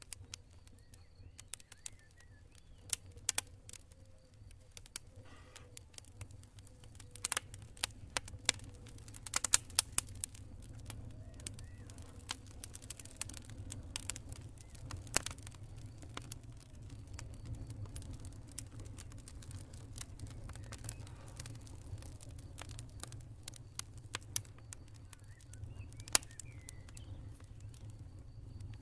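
Wood campfire crackling, with irregular sharp pops and snaps that come thickest about a third of the way in, over a steady low rumble of the burning fire.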